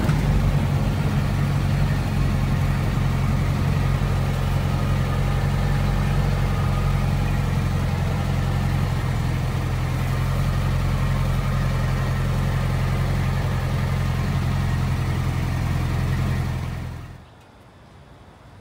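1964 VW Beetle's air-cooled flat-four engine heard from inside the cabin, running at a steady, even pitch while the car cruises, freshly adjusted carburetor and running smoothly. The sound cuts off sharply near the end.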